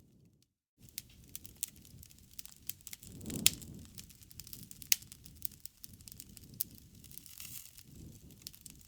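Wood fire crackling: many sharp pops and snaps over the low rush of the burning fire, the loudest pops about three and a half and five seconds in. The sound drops out briefly just under a second in.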